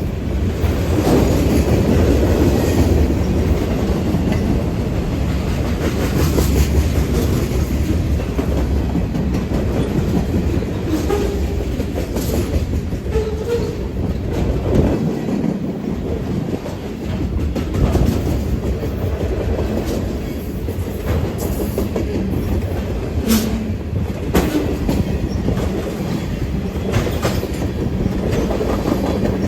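A train rolling past on the rails: steady wheel-on-rail noise with irregular clacks as the wheels cross the rail joints.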